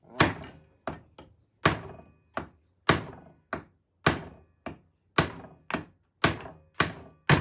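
Hand hammer striking metal in a steady run of blows, about two a second, some followed by a quicker, lighter tap, each blow sharp with a short ring.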